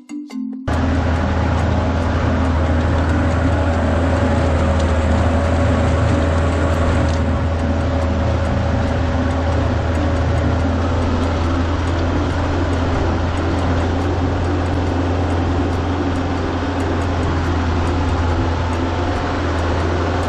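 A motor vehicle's engine running steadily with a strong low drone. It cuts in abruptly right after a short chiming jingle.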